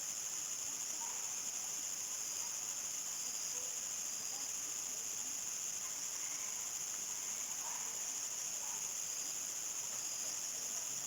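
A steady, high-pitched chorus of crickets trilling without a break, with faint short calls lower down now and then.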